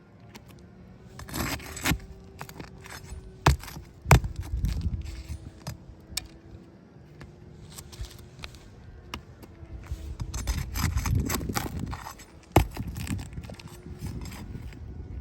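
Irregular clinks, knocks and scraping of small hard objects being handled, with a few sharper thumps.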